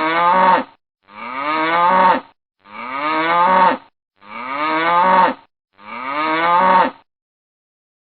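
An animal calling five times in an identical repeated pattern. Each call is a drawn-out voiced call about a second long that rises and then falls in pitch.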